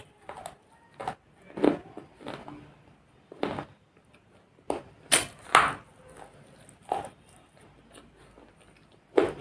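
Irregular knocks, taps and short scrapes of hard objects being handled and set down on a surface, about a dozen over several seconds.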